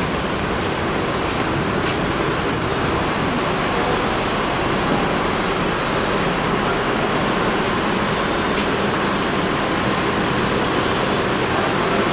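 Steady cabin noise inside a Scania K410IB coach on the move: road rumble and engine drone mixed with the air-conditioning hiss.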